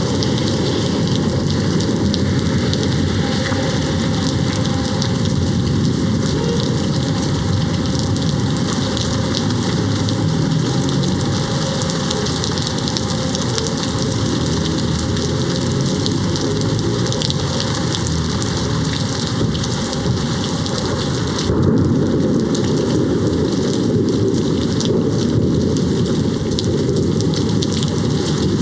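Steady heavy rain hitting a window, an even hiss and patter, with a low rumble of distant thunder swelling about three-quarters of the way through.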